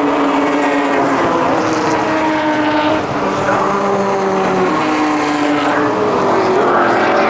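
Heritage touring race cars' engines running hard around the circuit, their pitch falling and climbing again several times as they brake, change gear and accelerate.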